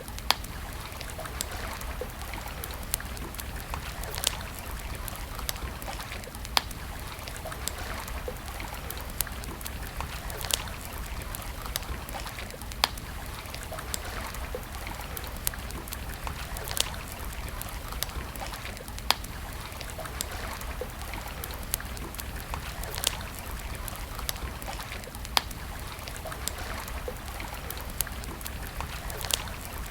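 Wood campfire crackling: sharp pops at irregular intervals, a few every couple of seconds, over a steady background hiss.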